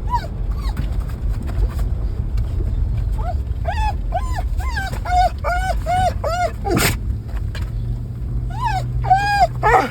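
A dog whining and yipping in excitement: runs of short, high whimpers, each rising and falling in pitch, over a steady low rumble from the moving car. About seven seconds in there is one sharp bang.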